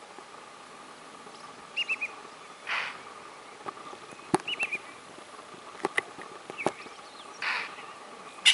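Impala alarm snorts, short breathy blasts a few seconds apart (about 3 and 7.5 seconds in), made to warn the herd and tell a stalking lioness she has been seen. Between them come short runs of quick bird chirps and a few sharp clicks.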